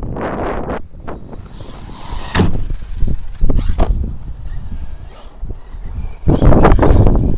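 Tekno MT410 electric RC monster truck on 6S driving hard on dirt, its brushless motor whining up and down with bursts of tyre and chassis noise, over heavy wind buffeting on the microphone.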